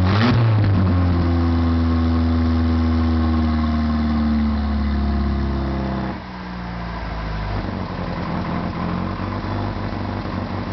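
Turbocharged Dodge Shadow's four-cylinder exhaust, fitted with an electric exhaust cutout. A brief rev at the start gives way to a long engine note that falls slowly in pitch. About six seconds in it drops to a quieter, rougher run.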